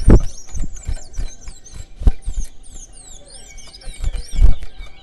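Chestnut-bellied seed finches (towa-towa) singing in a rapid run of high, sweeping whistled notes during a song-counting contest. There are heavy low thuds near the start and again about four and a half seconds in.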